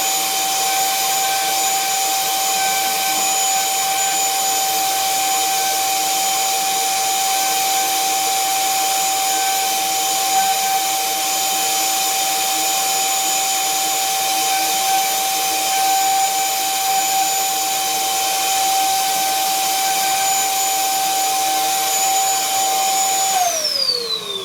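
Electric drill running at a constant high speed. Near the end it is released, and its whine falls steeply in pitch as the motor spins down.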